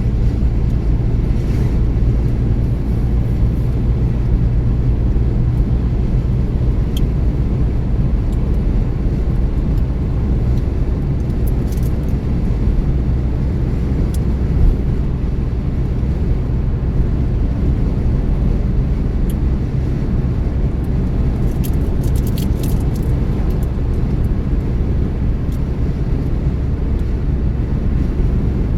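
A car driving at a steady speed: an even, low rumble of engine and tyre road noise, with a few faint ticks along the way.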